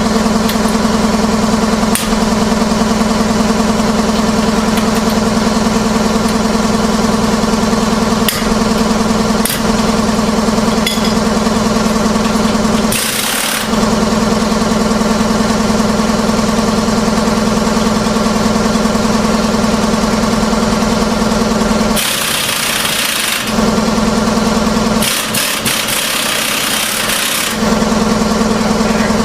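A loud, steady machine drone like a motor running. It gives way to a hiss for about a second just before halfway, and twice more near the end for a couple of seconds each.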